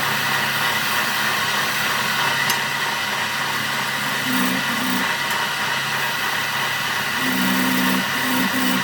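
Power tool motor running steadily with a high whine. A lower hum cuts in briefly about four seconds in and then on and off near the end.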